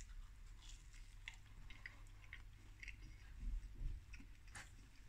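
A man biting into and chewing a slice of popcorn-chicken pizza close to the microphone: faint mouth sounds of chewing, with scattered small clicks and smacks and one sharper smack about four and a half seconds in.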